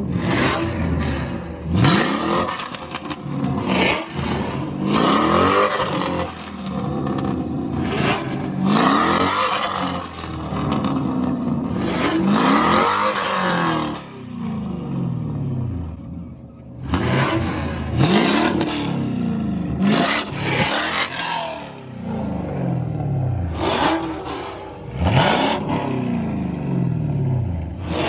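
Car engine revved hard over and over during a burnout, each rev climbing and falling back, with tyres squealing against the pavement in several long stretches.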